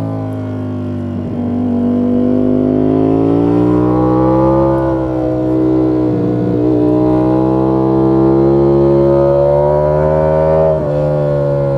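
Ducati Panigale V4 S's V4 engine running under load, its pitch climbing as it revs and dropping back several times. Short breaks in its note come about a second in, around the middle, and near the end, each followed by the pitch rising again.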